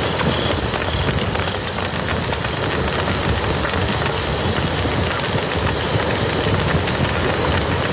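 Campfire crackling over the steady rush of a river. A few short high chirps repeat through the first few seconds.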